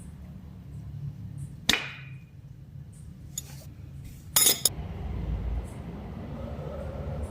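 Metal clinks and knocks of hand tools on metal parts during brake work. There is one sharp ringing clink about two seconds in and a quick run of loud metal strikes about two-thirds of the way through, over a steady low hum.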